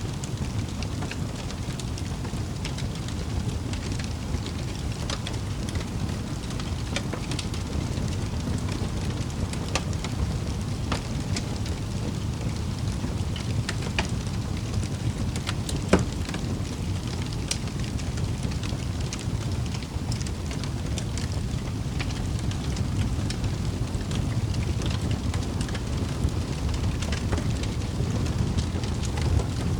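Wood fire crackling in a fireplace: a steady low rush of flames with scattered sharp pops and snaps, one louder pop about halfway through.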